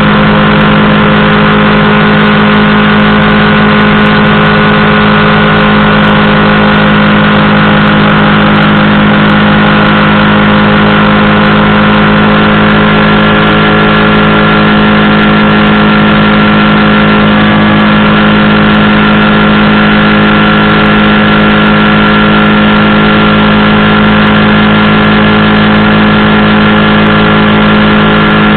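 Powered parachute's engine and propeller running steadily at a constant high power setting, very loud and close to the microphone.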